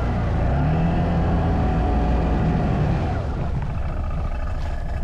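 CFMoto ATV engine running under throttle with a steady drone, easing off about three seconds in.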